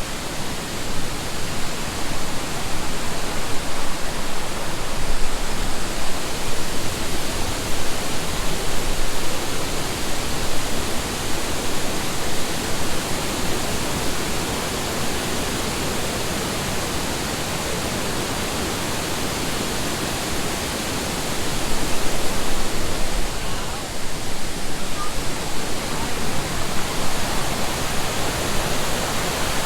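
Steady rush of water tumbling down the Kuang Si waterfall's cascades into its pools, easing slightly in the middle and growing louder again about three-quarters of the way through.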